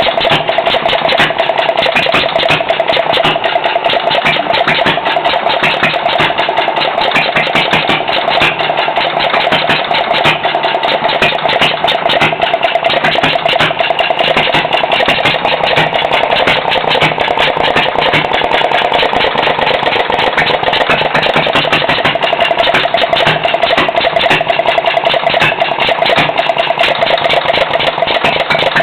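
Lauson LA engine running steadily, with a fast, even train of firing strokes. It is pieced together from other engines' parts and set to run off its original camshaft-driven governor; the owner says it needs some tweaking but does not run too bad.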